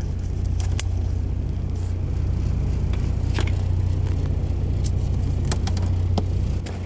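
Steady low engine rumble inside a truck cab, easing slightly near the end, with scattered clicks and knocks from things being handled.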